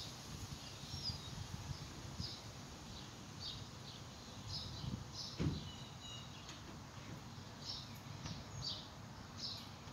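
Small birds chirping in short high calls every second or so over a low steady background rumble, with a brief lower falling sound about halfway through.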